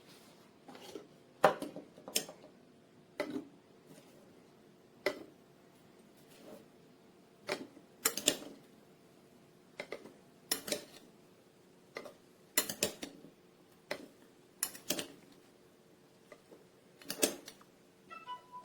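Hard kitchen items being handled and set down: a dozen or so sharp clinks and clacks at uneven intervals, over a faint steady hum.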